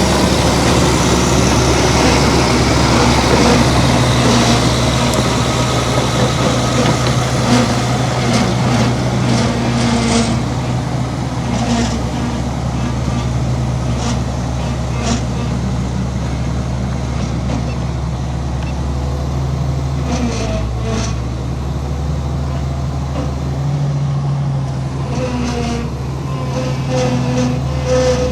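Heavy diesel earth-moving machinery running steadily under load. The engine note shifts a little about two-thirds of the way through, with scattered metallic clanks.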